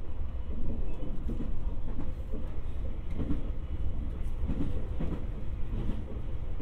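Electric commuter train running between stations, heard inside the passenger car: a steady low rumble of wheels and running gear on the rails, swelling and easing slightly.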